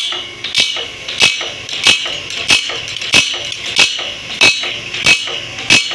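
Shivshakti bandsaw blade grinding machine running, a sharp metallic click repeating about every two-thirds of a second over a steady high grinding hiss, one cycle per tooth as the blade is indexed past the grinding wheel.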